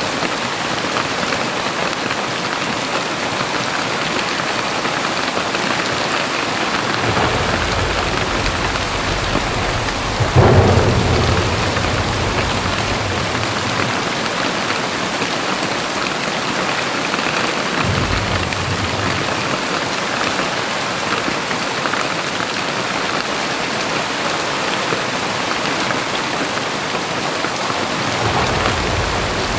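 Heavy rain pouring steadily, with thunder rolling through it: one louder clap about a third of the way in that fades into a rumble, and lower, quieter rumbles at other times.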